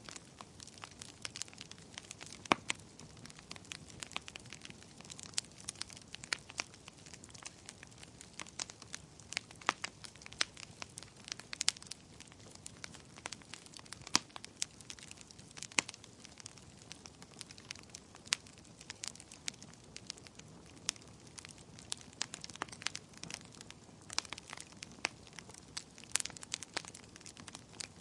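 Bonfire burning, with irregular sharp crackles and pops from the burning wood over a steady low hiss of the flames.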